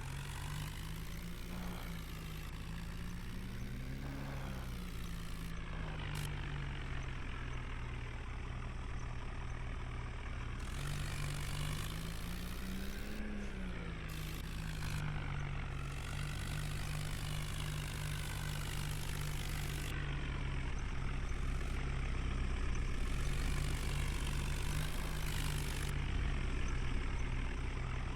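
New Holland tractor's diesel engine running under load while pulling a fully loaded trolley, steady with the engine speed briefly rising and falling twice, near the start and about halfway through.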